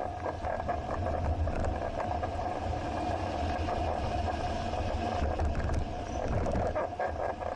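Riding noise from a moving bicycle picked up by an action camera: steady wind rumble and tyre-on-road noise, with scattered small rattles and clicks from the bike.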